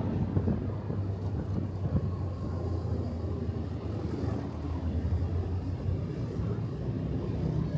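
Motorcycle engine running at a steady pace while riding, with road and wind noise.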